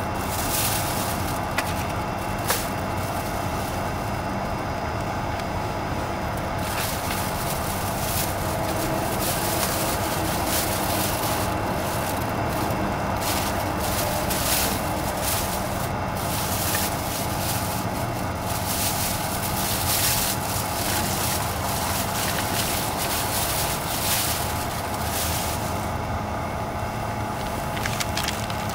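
A vehicle engine idling steadily, a constant drone with a few small clicks over it.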